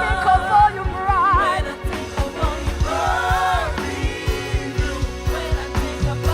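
Live gospel worship music: a lead singer holding and bending long notes with vibrato over a band with bass, keys and a steady drum beat.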